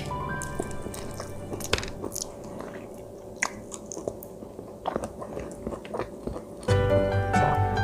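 A person chewing and biting sushi close to the microphone, with scattered crisp clicks and crunches. Background music is faint at first and comes back loud near the end.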